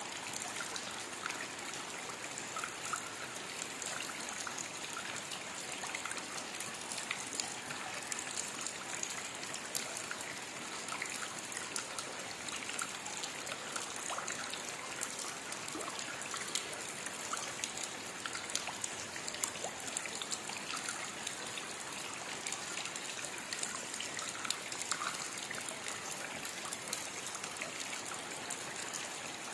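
Steady rain falling, an even hiss with many small scattered drop impacts and trickling water.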